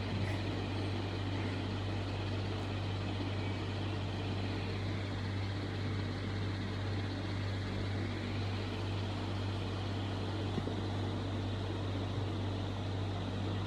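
A steady low hum under an even rushing noise, unchanging throughout, like a running machine.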